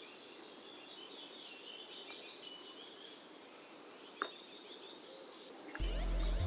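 Faint songbirds chirping in woodland, with a single soft click about four seconds in. Background music begins near the end.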